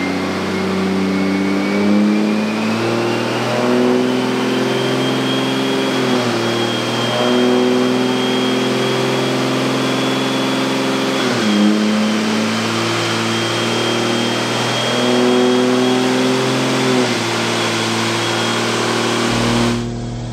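A 2021 Cummins 6.7 L inline-six turbodiesel making a full-throttle dyno pull through a 72 mm turbocharger. The engine note climbs and drops back sharply three times at the shifts, under a turbo whistle that rises and then holds. The run sounds strong, but the stock fuel system is running out of low-pressure fuel.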